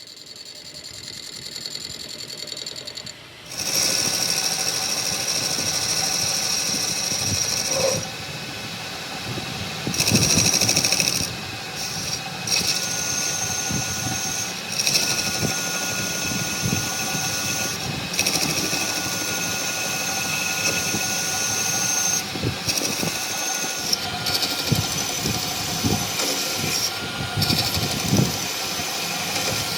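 A power tool running steadily, starting about three and a half seconds in.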